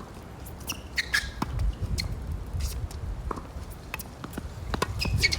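Wind buffeting the microphone in gusts, a low rumble that swells twice, with scattered sharp clicks and knocks from play on the tennis court.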